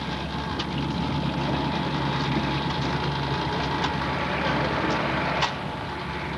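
Steady engine drone with a constant hum. A single sharp click comes about five and a half seconds in.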